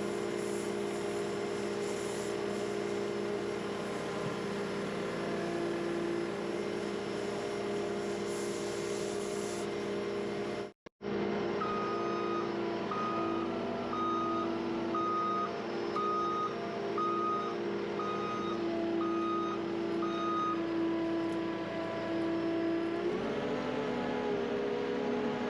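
Skid steer engine running steadily, with its backup alarm beeping about once a second for around nine beeps in the middle; near the end the engine revs up.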